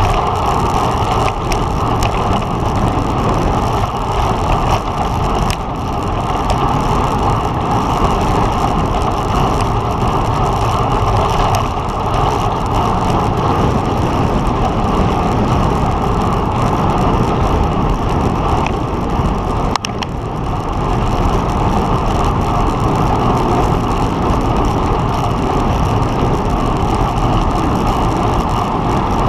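Steady wind and tyre noise from riding a road bike at race speed, with a few faint clicks.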